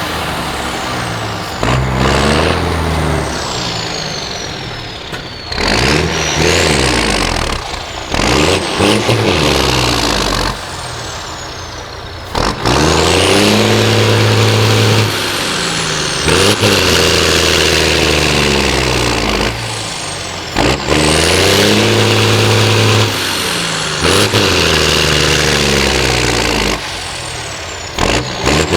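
Diesel engine of a Liaz 4x4 off-road truck revving hard over and over, its note climbing to long high-rev stretches and dropping back, with a high whistle rising and falling along with it.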